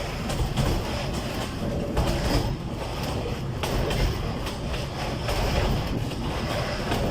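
Narrow-gauge train hauled by an MK48 diesel locomotive running along the track, with a steady low rumble and wheels clicking over the rail joints.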